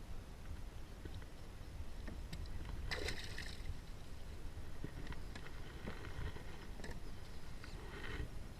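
Water lapping and sloshing against a kayak hull, over a steady low rumble, with a few small knocks and a short louder burst about three seconds in.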